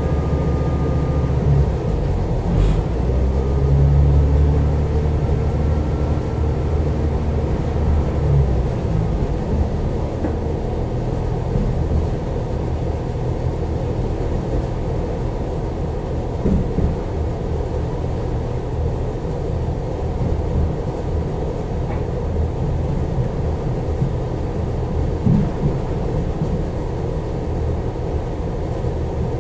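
Irish Rail 22000 class diesel multiple unit in motion, heard from inside the passenger coach: a steady low rumble of the train running on the track, swelling a little a few seconds in, with a couple of brief knocks later on.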